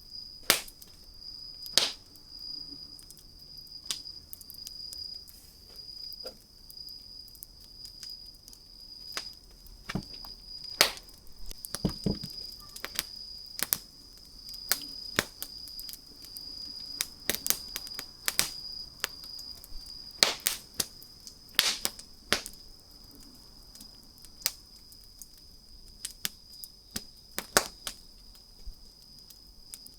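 Wood fire crackling, with irregular sharp pops and snaps from the burning wood, a few of them much louder, spread throughout. A thin, steady high-pitched tone runs in the background.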